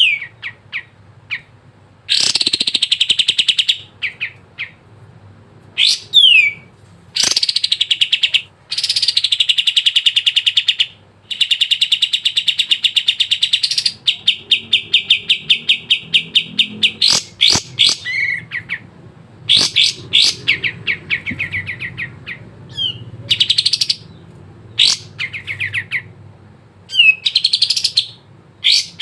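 A kapas tembak bulbul singing without pause. It gives repeated bursts of rapid chattering trills and short sliding whistled notes, some phrases running several seconds.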